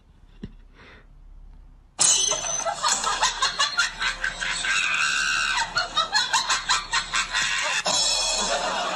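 A person laughing hard and shrieking in rapid pulses, starting suddenly about two seconds in.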